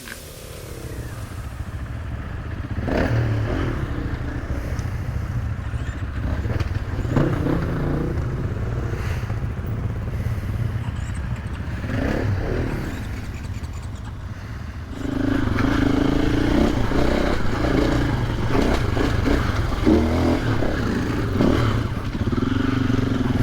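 KTM 500EXC single-cylinder four-stroke dirt bikes riding, the engine note rising and falling repeatedly as the throttle is worked. It gets louder about two-thirds of the way through.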